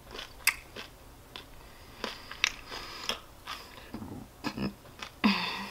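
Close mouth sounds of someone eating crispy pata (deep-fried pork leg): scattered wet smacks and clicks of chewing. Near the end comes a short burp, the loudest sound.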